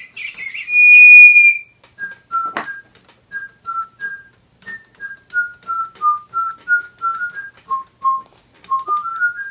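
A Digibirds toy whistle blown once, a single high steady note, then the Spin Master Digibirds toy bird answering with a chirpy electronic tune of short notes, about three a second, stepping up and down. A sharp click sounds about two and a half seconds in.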